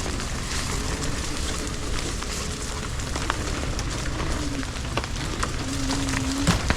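Electric unicycle riding over a wet trail: a steady crackling hiss of the tyre on wet grit, with many small clicks, and wind rumble on the microphone. A faint tone comes and goes.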